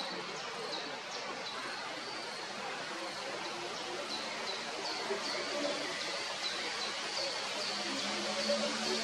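Male great tit singing: short, high, falling notes repeated a few times a second in two runs, with a brief lull between them, over a steady background hiss.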